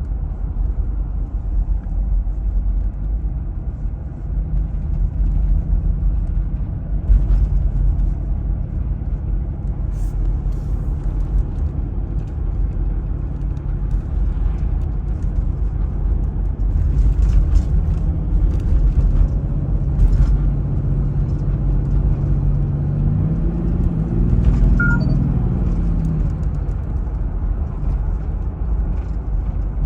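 1998 Toyota Land Cruiser HDJ101's turbo-diesel engine running while the truck drives, with a steady low rumble of engine and road noise. About three-quarters of the way through, the engine note climbs and then drops back.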